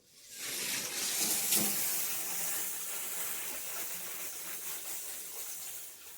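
Water spraying from a handheld filtered shower head. It comes on about a third of a second in as a steady, bright hiss and drops away near the end.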